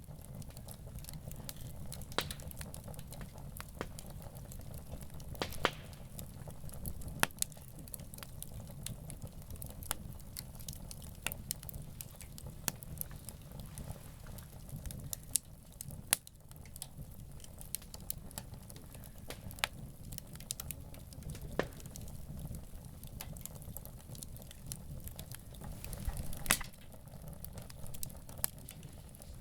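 Wood campfire burning, crackling with many irregular sharp pops over a low steady rumble; one pop near the end is louder than the rest.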